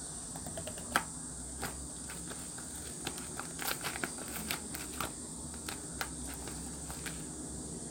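Clear slime being squished and worked by hand, giving scattered small wet clicks and pops, with a louder pop about a second in and a quick run of them near the middle.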